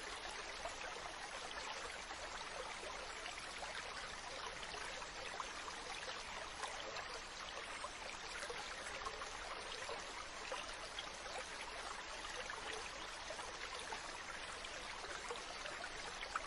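Mountain stream running over rocks: a steady rush and babble of water with small splashes throughout.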